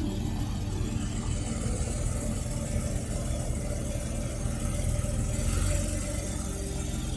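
Performance car engine idling, a steady low rumble.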